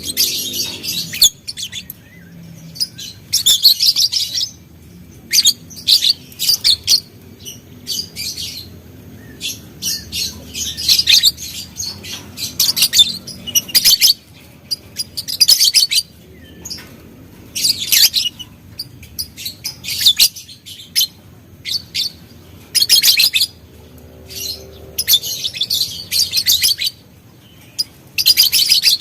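Lovebird chattering in repeated bursts of fast, high-pitched chirps, each burst a second or so long with short pauses between.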